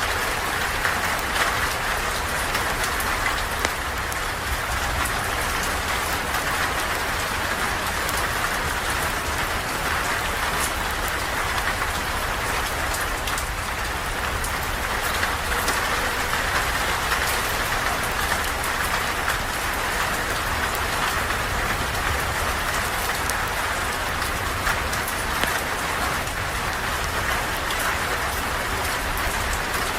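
Steady rain falling, an even hiss with a low rumble underneath and scattered faint ticks.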